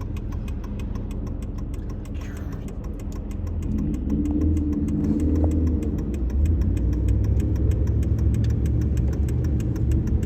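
Car engine and road rumble heard while driving, growing louder about four seconds in as the car speeds up, with a fast, even ticking over it.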